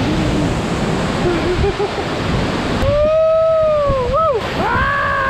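A waterfall rushing steadily. After about three seconds it cuts out, and a long drawn-out voice comes in, sliding slowly down in pitch, followed by two shorter rising-and-falling calls.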